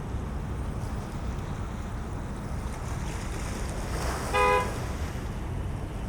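Steady low wind rumble on the microphone. About four seconds in comes a single short horn toot, about half a second long and the loudest sound.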